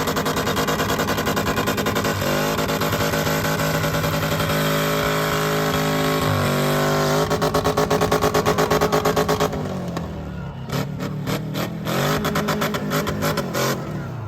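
Truck engine running hard at high revs, its pitch shifting as the throttle changes. About two-thirds of the way in it drops back and then comes in short, uneven bursts of throttle.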